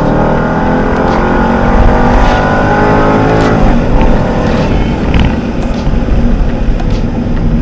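Mercedes-Benz E55 AMG's supercharged 5.4-litre V8 under hard acceleration, heard inside the cabin: the revs climb steadily for about three and a half seconds, then fall away suddenly and the engine runs on at a lower pitch.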